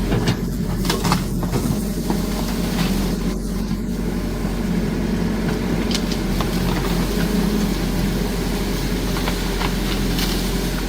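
Excavator diesel engine running steadily under work, with scattered short sharp cracks and clanks on top of the hum.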